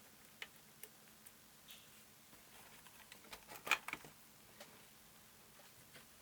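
Faint, scattered small clicks and taps of tools and parts being handled on an electronics workbench, with a short cluster of louder ticks between about three and four seconds in.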